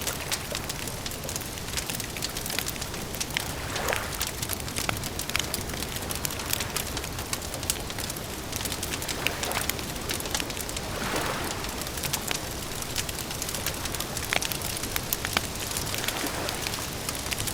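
Campfire crackling: a steady hiss full of sharp pops and snaps, with a few soft swells of louder rushing now and then.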